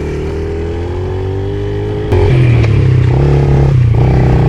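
Pit bike engine running, its pitch creeping up slowly, then a sharp click about two seconds in and the engine is suddenly louder from then on.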